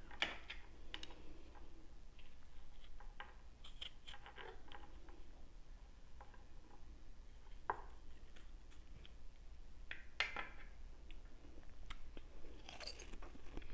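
Chewing and biting at the flesh around a mango seed, with short wet mouth clicks at irregular intervals.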